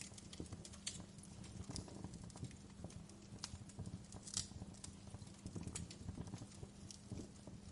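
Wood fire crackling, with irregular sharp pops and snaps over a low rumble of burning.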